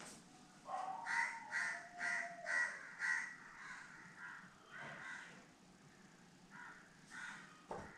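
A bird calling outside: a quick run of about six calls, roughly two a second, in the first few seconds, then fainter calls spaced further apart.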